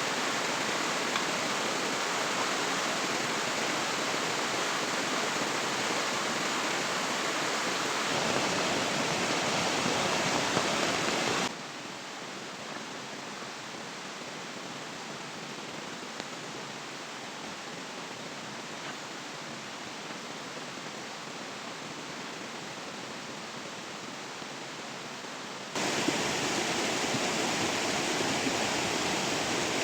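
Steady rushing noise of water, from heavy rain or a river. It drops abruptly to a quieter level about eleven seconds in and comes back just as abruptly about fourteen seconds later.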